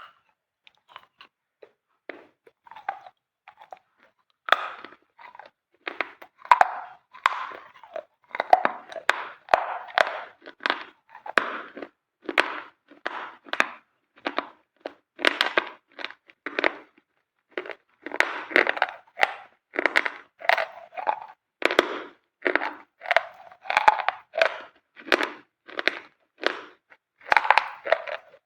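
A person biting and chewing brittle, dry white pieces, a run of separate sharp crunches. They come sparse and soft for the first few seconds, then turn loud and steady at about one to two crunches a second.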